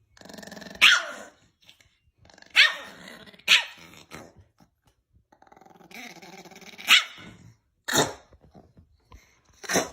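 A dog growling and barking: about six sharp barks spread through, with stretches of lower growling between them.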